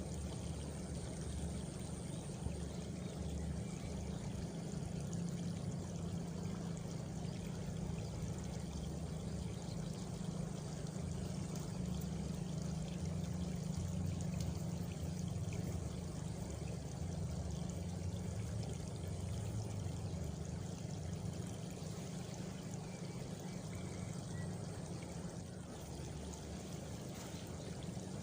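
Steady flowing water, an even low rush with no breaks, with a faint high cricket trill in the first couple of seconds.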